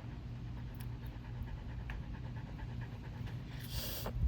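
Dog panting steadily, with a short hissing rustle near the end.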